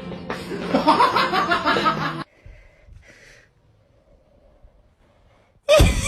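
A person laughing for about two seconds, then a quiet stretch, then a sudden loud burst near the end.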